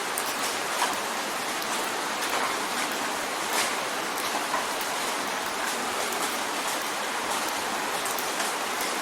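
Steady rain drumming on a window pane, a continuous hiss with scattered sharper ticks of single drops hitting the glass.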